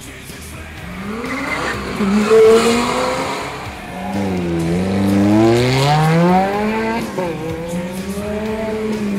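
Ferrari F430 Spider's V8 engine revving as the car accelerates past, pitch climbing and falling twice, loudest about two and a half seconds in.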